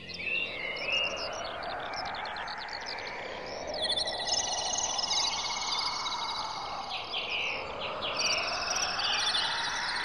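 Several birds chirping and warbling over a steady hiss, joined by high, even trills from about four seconds in.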